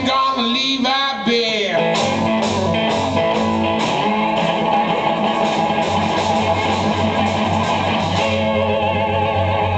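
Live blues-rock band playing: guitars over a bass line, with a phrase bending in pitch about a second in and an evenly pulsing bass from about six seconds on.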